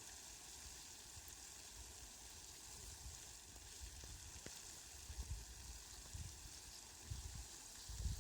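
Steady, faint hiss of falling rain, with a few low rumbles swelling up in the second half.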